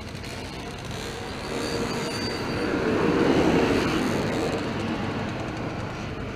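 Road vehicle noise from a passing motor vehicle, swelling to a peak about three seconds in and then easing off, with a faint high squeal around two seconds in.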